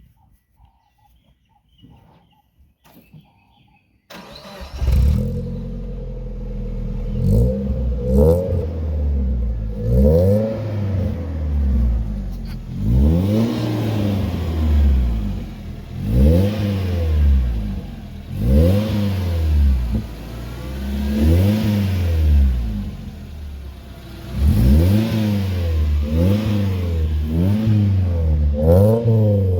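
Suzuki Jimny engine starting about four seconds in, breathing through a newly fitted stainless steel free-flow exhaust. It is then revved again and again in short blips about every two seconds, each one rising and falling in pitch.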